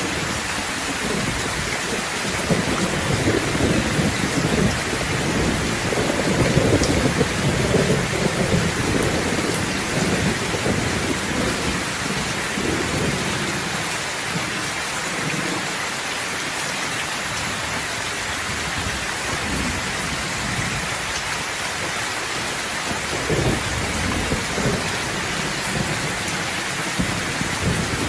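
Steady heavy rain falling, with thunder rolling underneath from a few seconds in until about twelve seconds, and a shorter rumble of thunder near the end.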